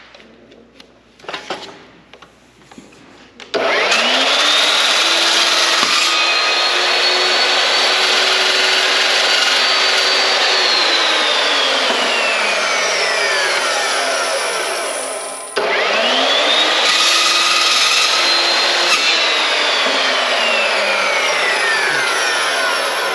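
Electric miter saw started twice to cut aluminum trim to an angle. Each time its motor whine rises quickly to full speed, runs a few seconds, then winds down slowly after release.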